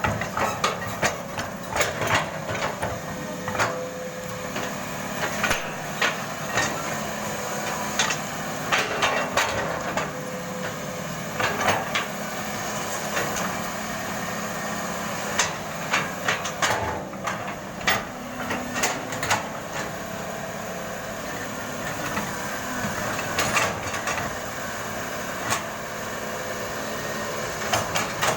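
Caterpillar 320 hydraulic excavator working: the engine runs steadily under frequent, irregular sharp knocks and clanks.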